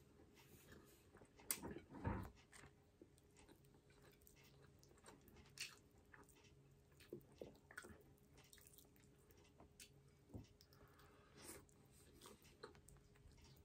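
A person chewing a mouthful of baked salmon and rice, faintly, with scattered soft mouth clicks and smacks; the loudest come about one and a half to two seconds in.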